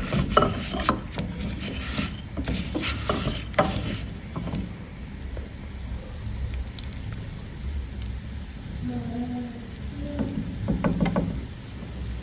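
Cooking spoon clinking and scraping against a pot of stew as bay leaves are fished out, with several sharp knocks in the first four seconds, then quieter stirring.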